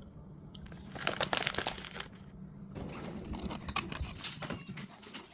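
Plastic food wrapper being crinkled and handled, in two spells of irregular crackling.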